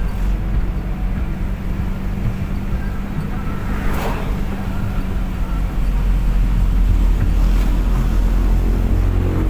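Car driving at speed, with a steady low rumble of engine and road noise and a steady hum. A brief whoosh comes about four seconds in, and the rumble grows a little louder near the end.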